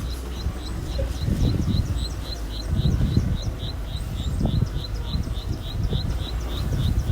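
A fast, even series of short high chirps, about three and a half a second, over a low, uneven engine rumble that swells now and then, typical of small earthmoving machinery working.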